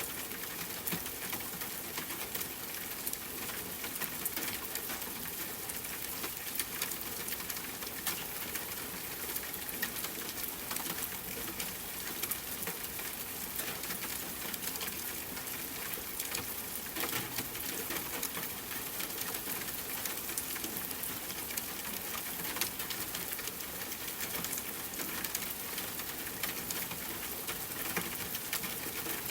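Rain pattering steadily on tent fabric, mixed with the crackle and pop of a campfire: an even hiss dotted with many small clicks.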